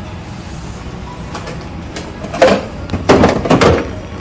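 Plastic fridge storage boxes being handled: after a low steady hum, a run of loud knocks and scrapes starts a little past halfway as a box is moved and slid about.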